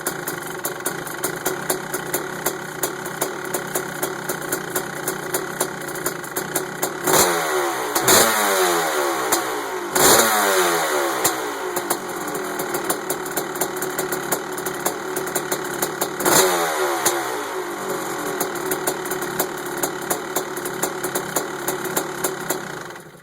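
1991 Kawasaki KX500's freshly rebuilt two-stroke single-cylinder engine running at idle. It is blipped four times, the revs falling back after each, and it shuts off just before the end.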